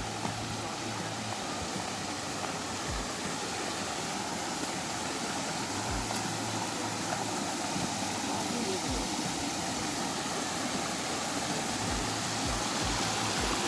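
Steady rushing water of a waterfall, growing gradually louder, with scattered low thumps.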